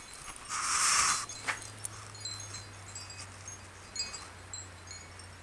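Wind chimes tinkling with scattered high ringing tones, a short rush of noise about half a second in, and a low steady hum from about a second in.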